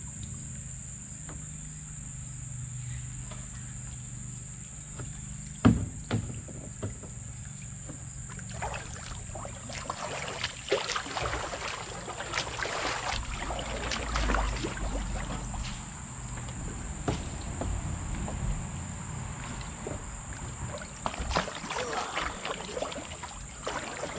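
Crickets trill steadily and high-pitched while a kayak is paddled through shallow water, with the splash and drip of paddle strokes that pick up from about eight seconds in. A single sharp knock, likely a paddle striking the hull, sounds about six seconds in.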